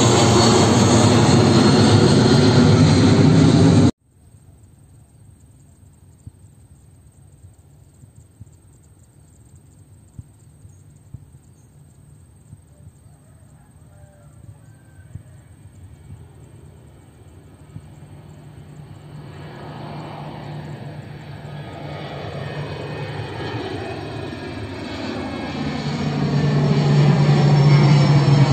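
Avro RJ85 four-engined turbofan jet running loud, then cut off abruptly about four seconds in. A faint low engine hum with a few light clicks follows, swelling steadily with a sweeping, phasing tone over the last ten seconds until it is loud again.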